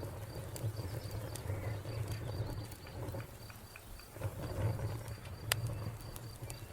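Wood fire crackling with scattered snaps and a sharp pop about five and a half seconds in, over a low rumble. A cricket chirps in an even pulsing rhythm behind it.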